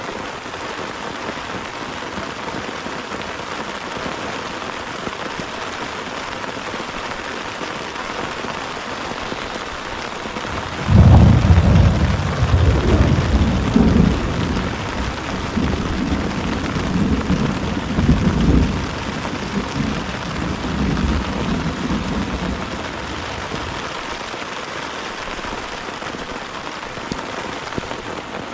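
Heavy rain falling steadily. About eleven seconds in, a loud clap of thunder breaks in suddenly and rolls on in low rumbling swells for roughly ten seconds before fading back under the rain.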